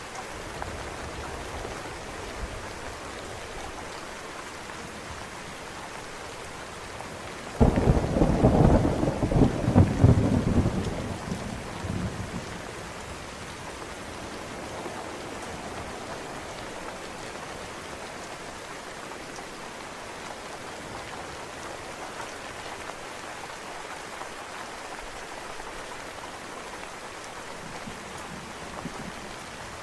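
Steady rain falling, with one sudden thunder clap about a quarter of the way in that rumbles for a few seconds and fades, leaving the rain.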